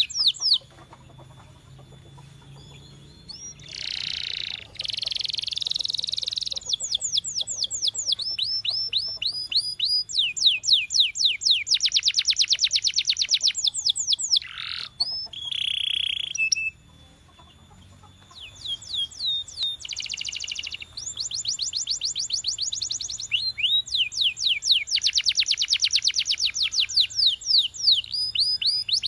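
Canary singing: fast trills of repeated sweeping notes in phrase after phrase, with short pauses near the start and about halfway through.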